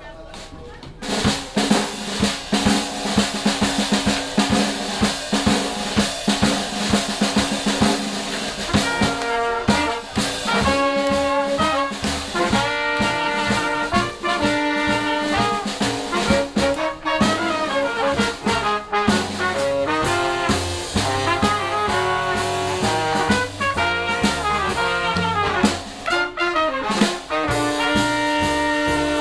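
Jazz band playing live, starting about a second in with a steady rhythm; a melody comes in over it about nine seconds in.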